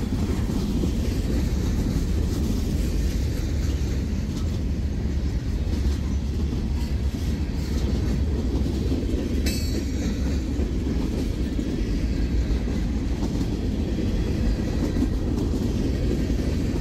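CSX mixed freight train's cars rolling past close by: a steady low rumble of steel wheels on the rails. A brief high squeal cuts through about halfway.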